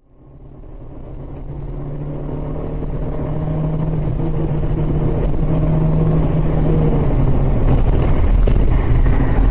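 A car's engine and road noise: a steady engine tone over a low rumble that fades in and grows steadily louder.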